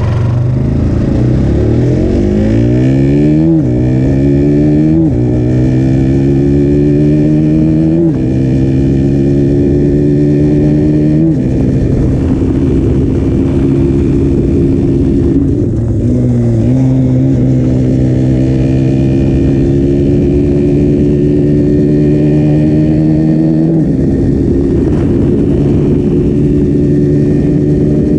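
KTM Duke 125's single-cylinder four-stroke engine through its stock exhaust, accelerating up through the gears. The pitch climbs and then drops sharply at each upshift, four times in the first twelve seconds or so. After that it holds a steadier note that climbs slowly, with a couple of brief dips.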